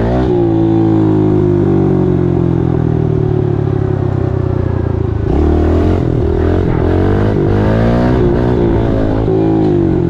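Small pit bike engine running under a rider: the revs ease off and fall over the first two seconds, hold steady, then pick up about five seconds in and rise and fall several times with the throttle.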